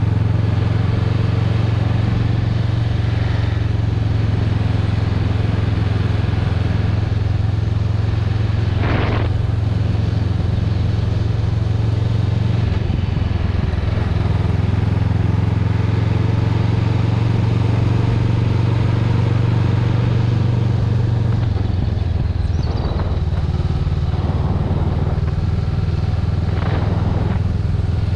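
Honda Rebel 500's parallel-twin engine running steadily at cruising speed, with wind and road noise over it. The engine note shifts slightly about halfway through and again later on.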